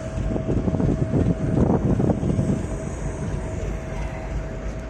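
EP1M electric passenger locomotive rolling in with its train: a steady low rumble under one constant whine, with a stretch of heavy clattering from the wheels during the first two and a half seconds that then eases.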